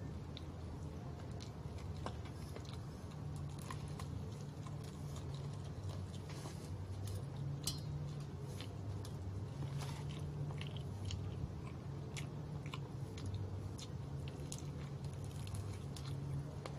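A person biting and chewing crispy fried chicken, the coated skin crunching in many short crackles, over a steady low hum.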